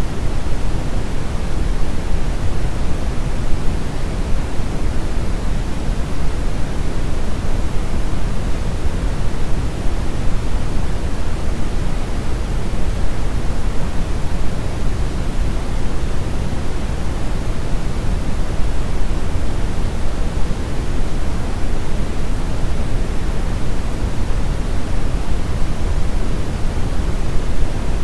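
Steady brown noise: a constant, even rumbling hiss, heaviest in the bass and fading toward the highs, with no change or events.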